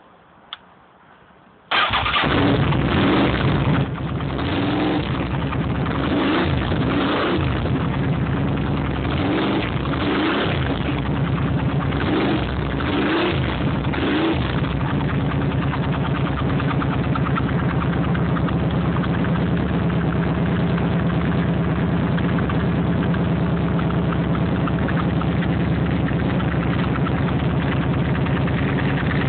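Honda VTR1000F Firestorm's 90-degree V-twin running through aftermarket MTC GP Pro exhausts. After a single click it starts abruptly about two seconds in and is blipped repeatedly for about twelve seconds, then settles to a steady idle.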